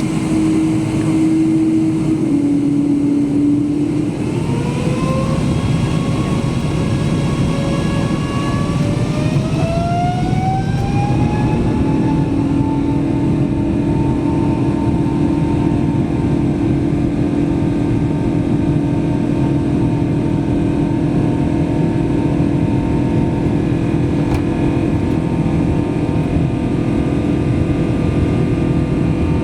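Boeing 777-200ER's twin jet engines heard from inside the cabin, spooling up to takeoff thrust: a whine rises in pitch from about four seconds in for some eight seconds, then holds steady over a loud rush.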